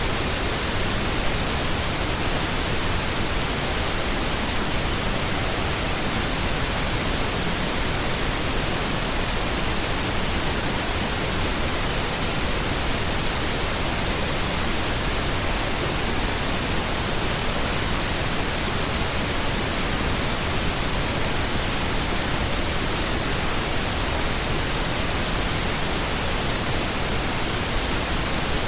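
Steady synthetic pink noise: an even, unchanging hiss, fuller in the low end than white noise.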